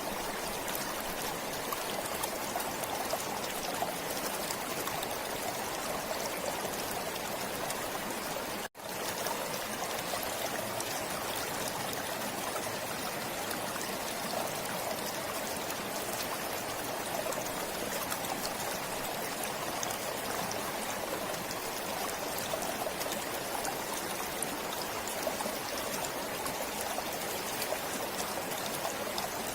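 A forest stream flowing and trickling steadily, with an even, unbroken rush of water. The sound cuts out for an instant about nine seconds in, then carries on unchanged.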